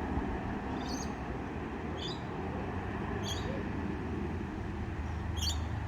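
Scania K320UB bus running with a steady low rumble that grows a little stronger near the end. Four short high chirps sound over it at uneven intervals.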